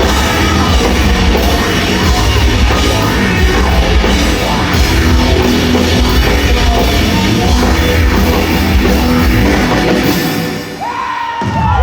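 Live rock band playing loudly, with a drum kit keeping the beat; near the end the music breaks off and the crowd begins to cheer and scream.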